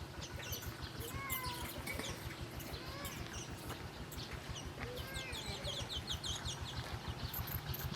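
Wild birds chirping and calling in short notes and little rising and falling calls, with a quick rapid run of high chirps near the end, over a steady low rumble.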